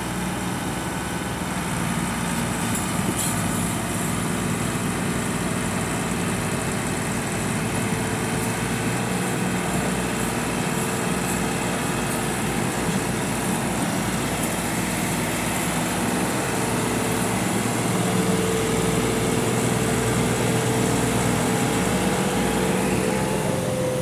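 Massey Ferguson 260 tractor's diesel engine running steadily while pulling a trolley stuck in mud, a little louder about three-quarters of the way through.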